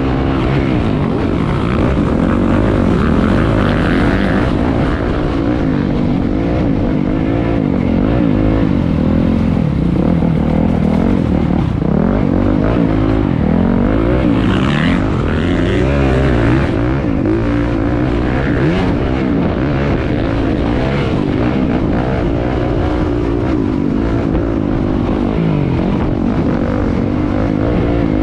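Several motocross dirt bikes racing, a steady roar of engines, each rising and falling in pitch as the riders throttle on and off.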